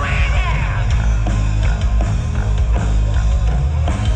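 Loud rock music with a pounding beat and heavy bass, a singing voice sliding up and down near the start.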